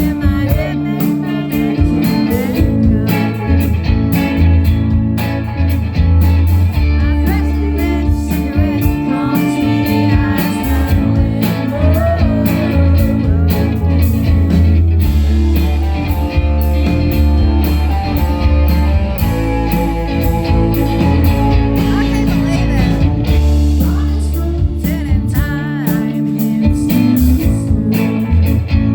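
Live band playing a blues-rock song: a singer over guitar, with a heavy bass line.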